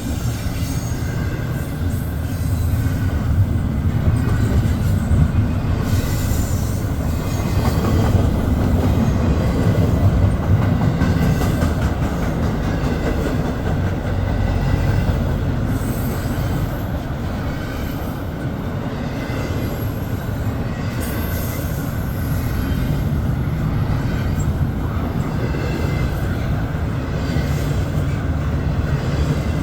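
Norfolk Southern intermodal freight train rolling past, its container cars making a steady low rumble. Wheels click over the rail joints now and then, over a faint steady wheel squeal.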